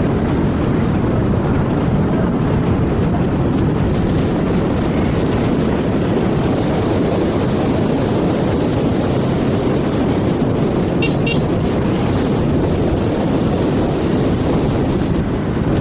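Motorcycle riding along at steady speed, its engine buried in loud, constant wind rush on the microphone. Two brief high-pitched sounds come about eleven seconds in.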